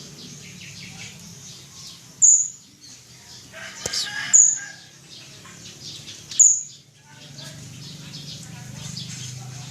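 Philippine hanging parrot (colasisi) giving three short, shrill, very high-pitched calls about two seconds apart, with a brief flutter of wings between the first two calls.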